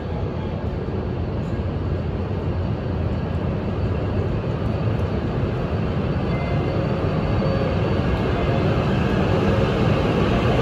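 JR Hokkaido H5 series Shinkansen train pulling out of the station. Its running noise grows steadily louder as it gathers speed.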